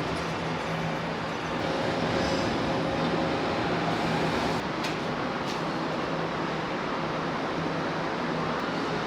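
Steady running noise of a vehicle, an even rumble and hiss with a low steady hum underneath.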